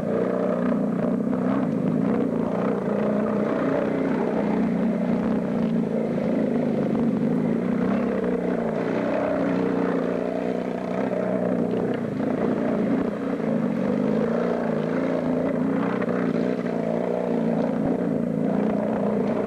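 Engine of a homemade bush-hog, built around a Yamaha 650 engine, running steadily at a fairly constant speed, its note wavering only slightly.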